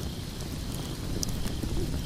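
Wood fire burning in a fireplace: a steady low rumble of flames with a few sharp crackles, one clear pop a little over a second in.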